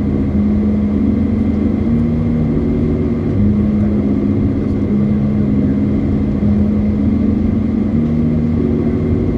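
Car driving on the road: a steady low road-and-engine rumble, with low held tones that step up and down in pitch every second or so.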